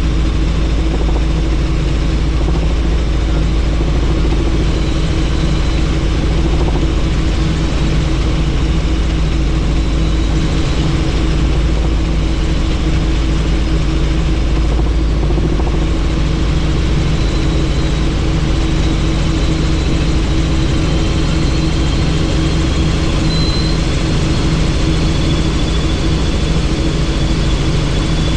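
Helicopter in flight, heard from on board with the doors off: a steady engine and rotor drone under an even rush of wind noise.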